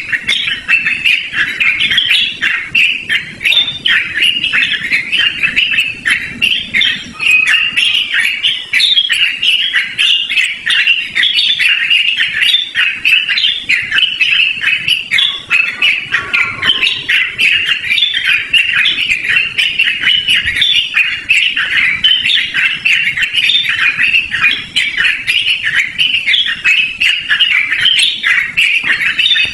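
Yellow-vented bulbul (trucukan) singing without a break: a long, dense run of quick, chattering notes.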